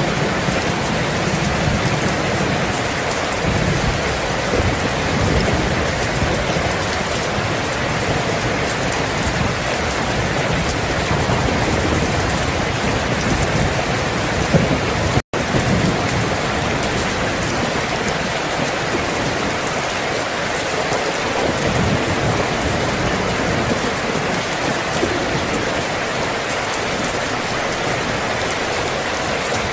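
Steady heavy rain falling, with a low rumble of thunder swelling and fading underneath. About halfway through, the sound cuts out for an instant and comes straight back.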